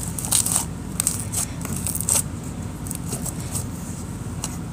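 Slime with foam cubes in it being squished and worked by hand, giving scattered sticky crackles and clicks.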